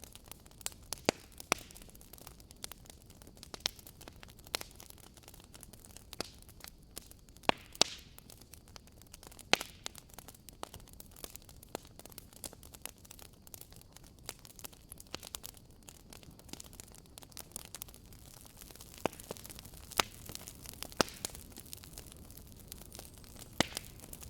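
Wood campfire crackling: a low steady hiss with irregular sharp pops and snaps, a few of them much louder.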